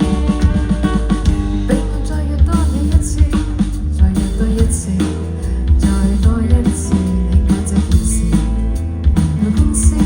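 Live band music: guitars and bass over a drum kit keeping a steady beat, with no break.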